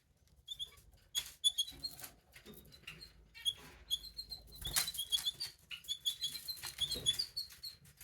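Canary nestlings giving many short, high cheeps in quick succession, with rustling and fluttering bursts about halfway through and again near the end.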